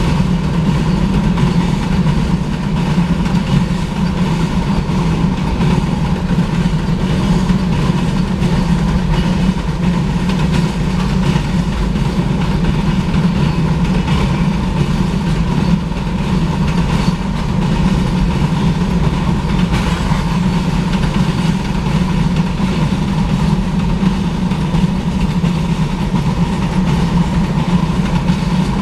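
Long freight train rolling past at steady speed: a continuous heavy rumble of the cars and wheels on the rails, with a steady low hum that does not change.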